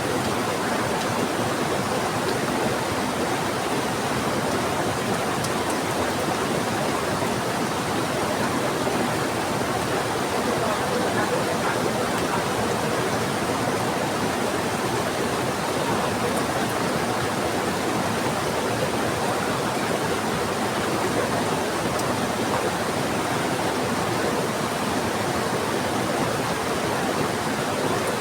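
Steady rushing of a fast-flowing river mixed with heavy rain, an even hiss that holds without change.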